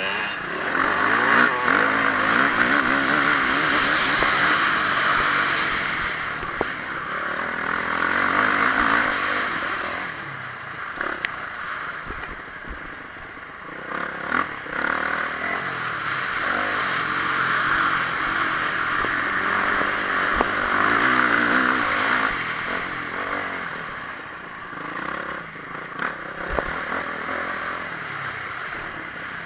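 Motocross bike's single-cylinder four-stroke engine, a Honda CRF450R, revving hard and easing off again and again as it is ridden around the track, with a few sharp knocks and clatters along the way.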